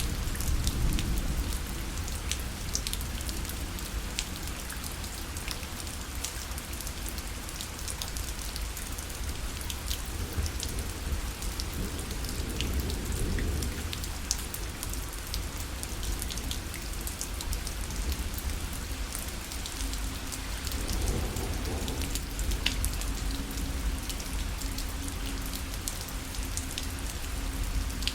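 Steady rain falling on a parasol: a constant hiss dotted with many sharp, separate drop ticks, over a low rumble.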